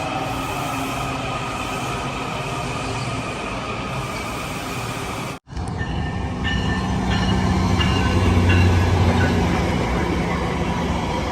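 Train rolling past steadily. About five seconds in the sound cuts out abruptly and a second, louder train recording begins, with a heavy low rumble and several brief high-pitched squeals.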